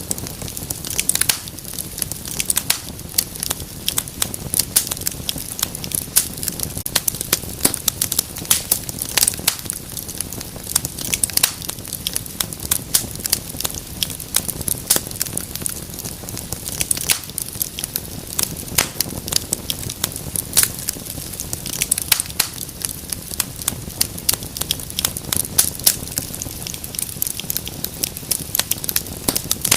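Wood fire crackling and popping, many sharp irregular snaps over a low steady rumble of flame.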